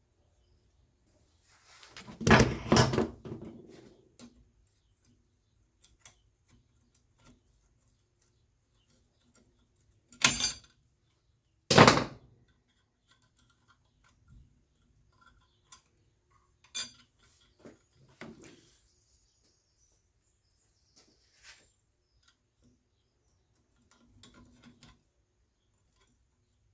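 Metal tools and parts clinking and clanking as they are handled. There is a cluster of clatter about two seconds in, two sharp clanks around ten and twelve seconds in, then a few scattered lighter knocks.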